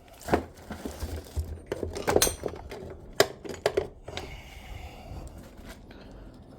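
Metal parts and tools being handled on a workshop bench: a string of sharp metallic clinks and knocks that dies down about four seconds in.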